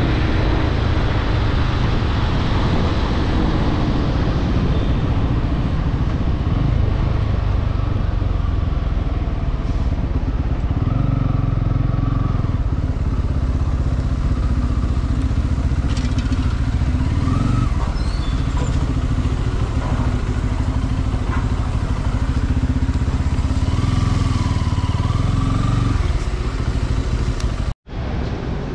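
Bajaj Pulsar N250's single-cylinder engine and exhaust running under way, the note steady for long stretches and changing pitch a couple of times as the revs shift. The sound cuts out for an instant near the end.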